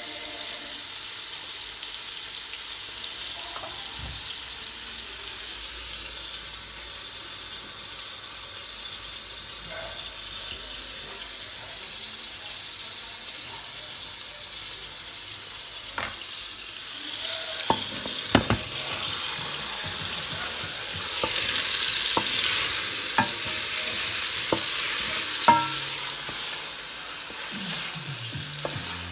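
Meatballs sizzling as they fry in oil in a pot, the sizzle growing louder in the second half. Several sharp knocks of a wooden spoon against the pot as they are stirred.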